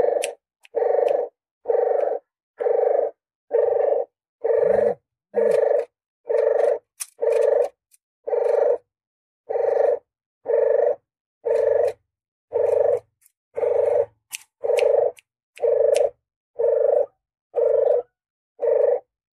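Lure-call recording of a puter geni dove cooing: a low coo repeated evenly about once a second, with faint sharp clicks among the notes.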